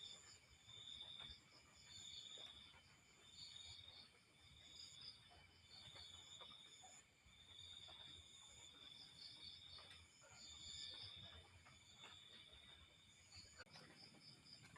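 Insects chirping faintly. One chirp repeats about once a second, with quicker, higher trills between, over a low background rumble.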